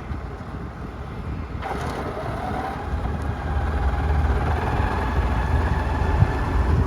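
John Deere 7400 tractor's diesel engine running. About two seconds in, a whine rises as the revs or load pick up, and the engine grows louder from then on.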